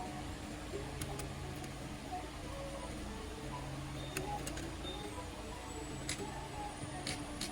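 A few sharp, light clicks at irregular moments over a steady low hum.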